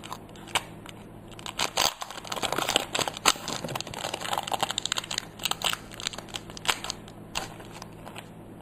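Foil Pokémon booster pack wrapper being crinkled and torn open by hand, a dense run of crackles and crinkles.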